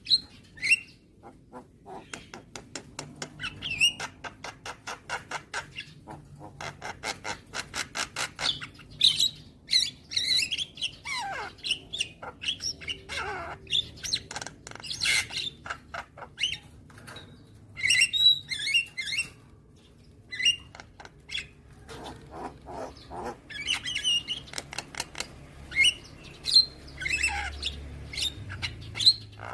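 Javan myna (jalak kebo) calling: fast runs of clicking, chattering notes mixed with harsh squawks and a few falling whistled notes.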